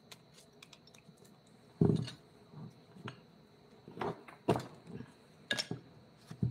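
Irregular knocks, taps and clicks of hand work, unevenly spaced; the loudest knock comes about two seconds in, with several more near the end.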